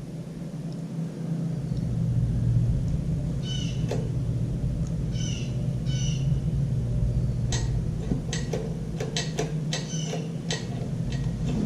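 Small single-cylinder mower engine on a Toro self-propelled push mower running steadily with a low hum that comes up in level a second or two in. A few short high squeaks come near the middle, then a quick run of sharp clicks.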